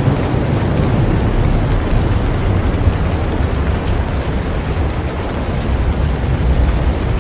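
Heavy rain falling on a boat: a steady, loud wash of noise with a deep rumble underneath and the odd faint tick of a single drop.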